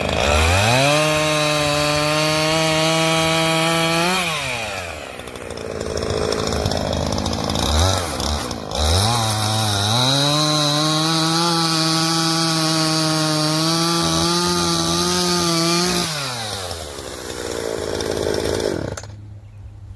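Chainsaw revved up to full throttle and held there for about three seconds while cutting through a branch, then dropped back to idle. After a short blip of the throttle, it revs up again and holds for a longer cut of about six seconds before falling back. The sound drops off sharply near the end.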